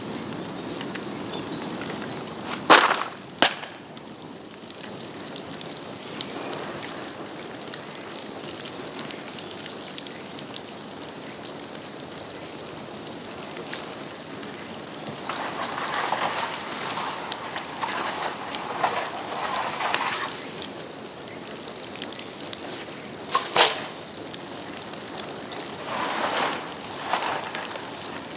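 Bamboo bonfire crackling, with sharp loud bangs as bamboo bursts in the heat: two close together about three seconds in and one more about two-thirds of the way through. Flurries of denser crackling come and go, and a thin high whistle is heard on and off.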